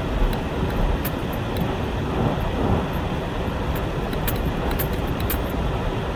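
Steady low rumble of a truck's engine and tyres heard from inside the cab while driving on a snowy road, with faint scattered clicks and ticks over it.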